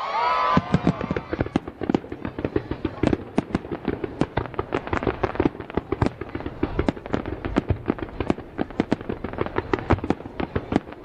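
Fireworks display going off: many bangs and pops in quick, irregular succession.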